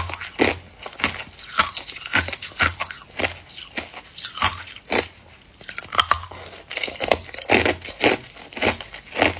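A person biting and chewing hard clear ice: a run of sharp, irregular crunches with a short lull about halfway through.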